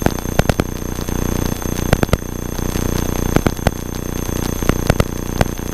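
Cessna 172 cabin sound as picked up through the intercom: the engine's steady drone overlaid with electrical interference, irregular sharp crackling clicks several times a second and a constant high-pitched whine.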